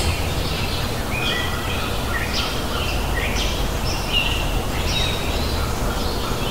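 Small birds chirping, short calls coming about once or twice a second, over a steady low rumble of background noise.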